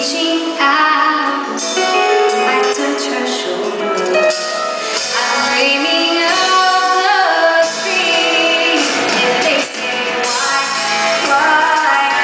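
A live band plays a pop ballad while a woman sings.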